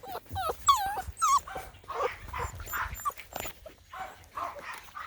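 Labrador Retriever puppies, about six and a half weeks old, whining and yipping: a handful of short squeaky cries that bend up and down in pitch in the first second and a half, then softer scattered sounds.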